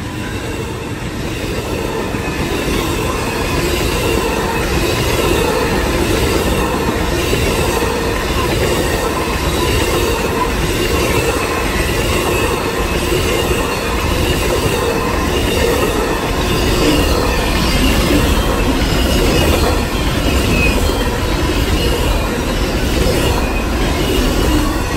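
Amtrak Auto Train cars rolling past close by: steel wheels clattering over the rails in a regular clickety-clack, with a high, wavering wheel squeal. The passenger cars give way to enclosed autorack car carriers, and the sound grows louder over the first few seconds, then holds.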